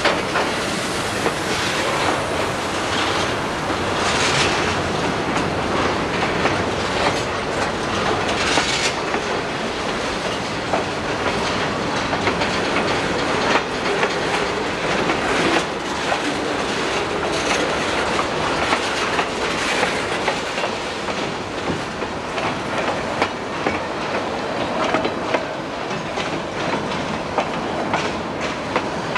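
Freight cars of a Conrail train rolling past close by: boxcars, a covered hopper and flatcars, their wheels running on the rails with a steady rolling noise and frequent clacks.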